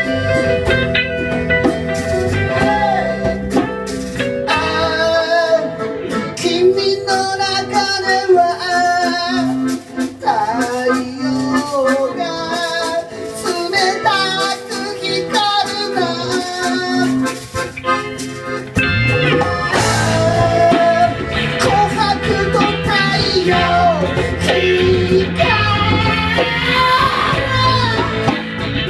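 A band playing a song live, with singing over guitar. A few seconds in, the low end drops away for a sparser passage, and the full band comes back in about two-thirds of the way through.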